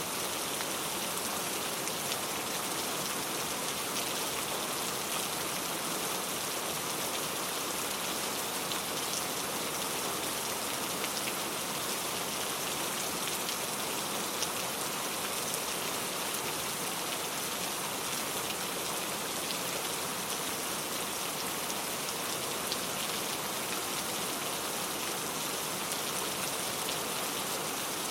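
Steady rain falling, an even hiss of drops with faint scattered ticks of drops on a surface.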